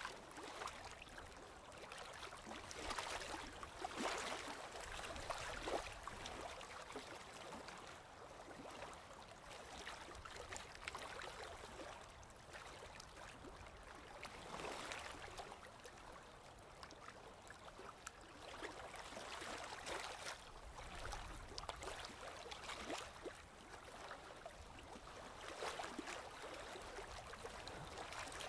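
Gentle sea waves washing in, swelling and easing every few seconds with a fizzing wash of water.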